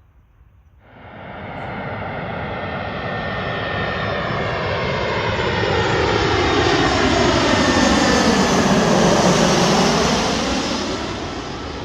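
Jet airliner on landing approach passing close by, its engine noise cutting in suddenly about a second in, swelling to a peak near the end, then starting to fade.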